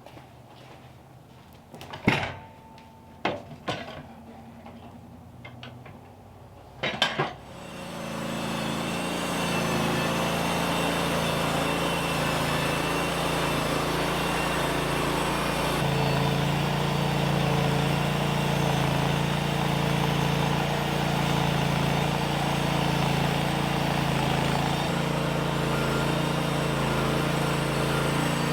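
A few sharp metallic clinks and knocks, then an engine starts about seven seconds in and runs steadily at an even pitch.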